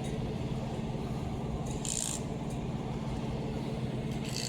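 A steady low mechanical hum, with a short hiss about two seconds in and another at the end.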